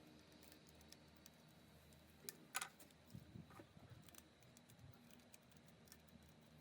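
Faint scattered clicks and taps over a low steady hum, with a sharper click about two and a half seconds in.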